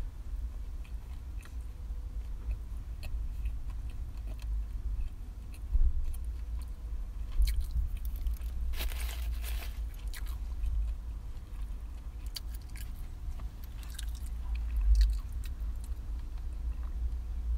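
A person chewing and biting food close to the microphone, with small crunches, over a steady low rumble. About nine seconds in there is a brief, noisy rustle-like sound lasting about a second.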